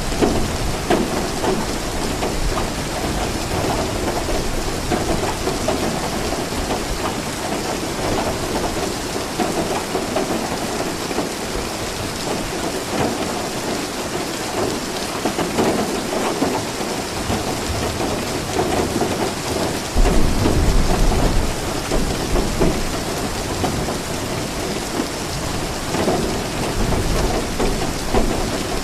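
Steady rain falling, with low rolls of thunder. A louder rumble starts suddenly about two-thirds of the way through.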